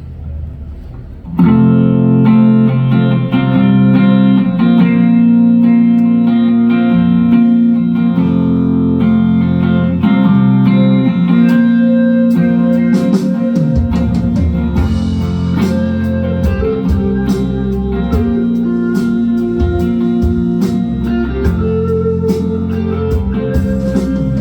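Instrumental intro of a song: guitar starts playing about a second in, and bass and drums join about halfway through.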